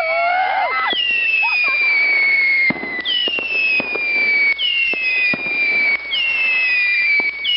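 Firework cake battery firing whistling shots: a string of high whistles, each sliding down in pitch over a second or two, a new one starting about every one and a half seconds, with sharp pops and bangs between them.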